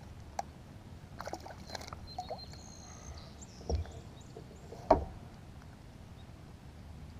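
Handling noises in a kayak during a fish fight: scattered clicks and knocks of tackle and hands against the hull over a low steady rumble, with two stronger thumps about four and five seconds in, the second the loudest.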